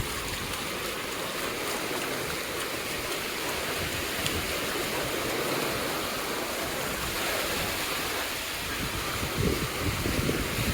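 Surf washing onto a sandy beach, an even steady rush, with a few low bumps near the end.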